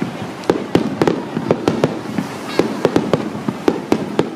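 Aerial fireworks shells bursting in a rapid barrage, about four sharp bangs a second.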